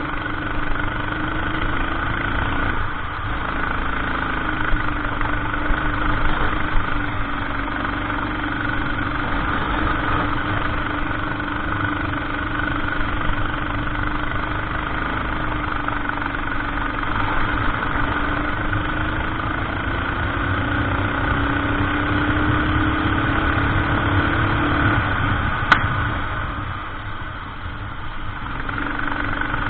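Go-kart engine running under racing load, its note rising and falling with the throttle through corners. About 26 seconds in there is a sharp click, and the engine note drops away for a couple of seconds before picking up again.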